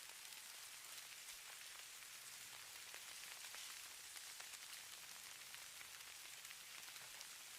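Falling snow or sleet: a faint, steady hiss sprinkled with many tiny ticks of grains landing on a surface.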